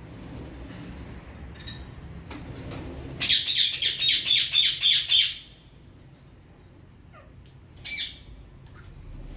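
Parrot squawking: a fast run of about nine calls, roughly four a second, lasting two seconds near the middle, with single calls early on and about eight seconds in.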